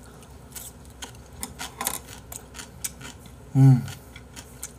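Close-up mouth sounds of someone chewing a mouthful of rice and soup-soaked vegetables: scattered wet clicks and smacks. About three and a half seconds in comes a short hummed "mm".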